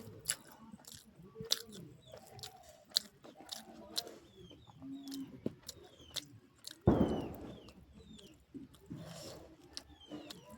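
Close-up chewing and mouth smacking of someone eating rice with dal, vegetable curry and fried bora fritters, with many small clicks and crunches. A loud sudden knock about seven seconds in.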